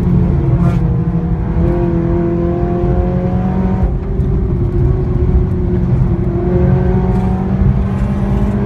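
Seat Leon Cupra's engine and loud exhaust running under steady load. The pitch climbs slowly, drops back about four seconds in, then climbs again.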